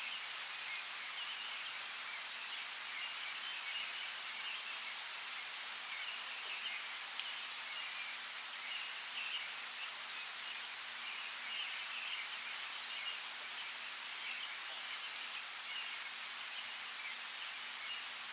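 Steady rain falling with scattered drop ticks, and small birds chirping on and off throughout.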